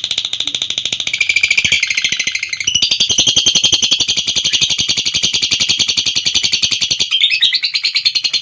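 Lovebird's long, unbroken 'ngekek' song: a shrill, rapid chattering of about ten chirps a second. The pitch of the chatter shifts briefly about three seconds in and again near the end.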